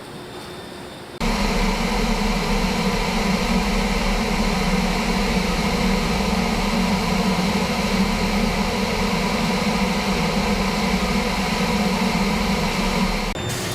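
Steady factory machinery running, a continuous low hum and hiss with a few constant tones, starting abruptly about a second in and cutting off shortly before the end.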